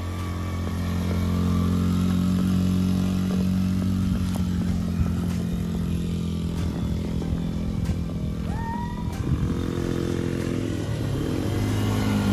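A motor engine running steadily, its pitch shifting after about nine seconds, with a short rising squeal about eight and a half seconds in.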